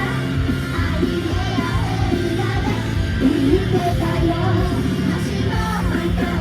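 Loud rock-style idol pop song playing through a live venue's sound system, with singing over it.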